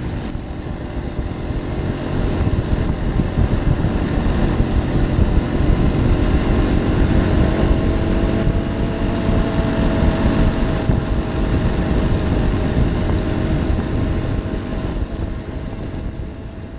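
Enduro dirt bike engine running steadily, getting louder over the first few seconds and fading near the end.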